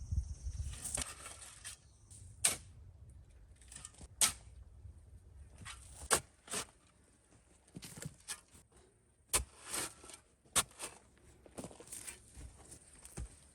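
Irregular sharp knocks and snaps, about ten of them spread apart, with soft rustling between: hand work with wooden sticks, grass and earth on a primitive shelter roof.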